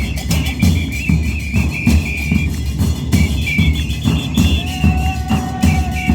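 Carnival percussion band playing a fast, steady beat on deep bass drums, with a whistle trilling over it.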